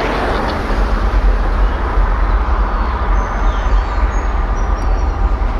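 A train running past: a steady, loud low rumble with a wash of noise, and a few faint short high-pitched chirps in the second half.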